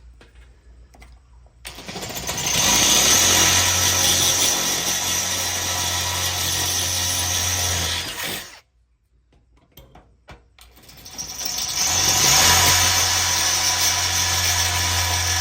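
Power drill boring through the steel lid of a Weber Smoky Mountain smoker, enlarging holes that were already started with a smaller bit. There are two steady runs of about six seconds each, with a short pause between them.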